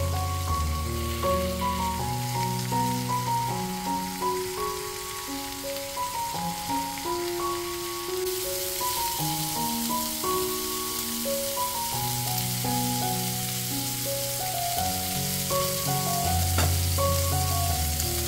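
Beef smash burger patties and onion slices sizzling in a cast-iron pan, the sizzle growing louder about eight seconds in as butter goes in and bubbles around them. Background music with a slow melody and bass notes plays over the frying.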